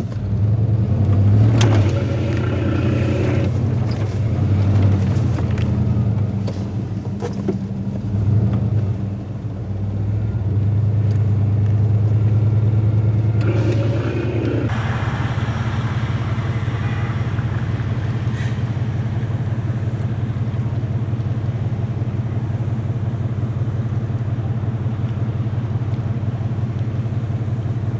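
Car engine running with a steady low drone. It swells and dips over the first half, then holds even from about halfway through.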